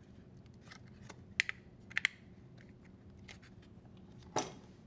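Plastic wire-harness connectors being pulled off a dishwasher control board: a few small clicks and rattles, in pairs about one and a half and two seconds in, then a louder knock near the end.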